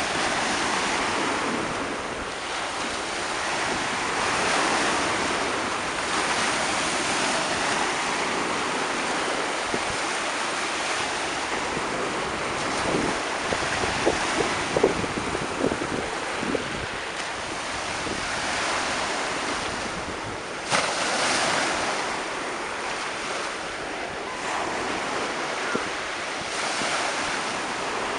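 Black Sea surf: waves breaking and washing onto the beach, a continuous rushing noise that swells and eases every few seconds, with a few brief sharp spikes near the middle.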